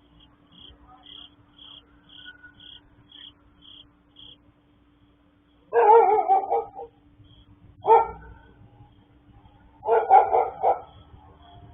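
A dog barking: a burst of barks a little past halfway, a single bark soon after, and another burst near the end. Before the barking, a run of about eight short high chirps, roughly two a second.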